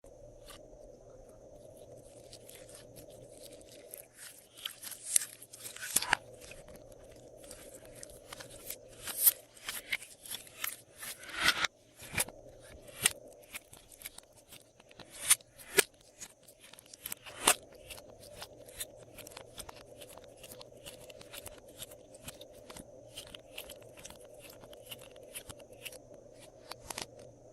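Slime being mixed and squished by hand, with many sharp crackles and sticky pops that come thickest through the first two-thirds and then thin out, over a steady low hum.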